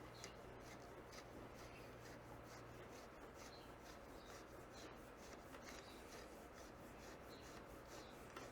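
Near silence: a faint steady low hum with soft, scattered rubbing and handling noises.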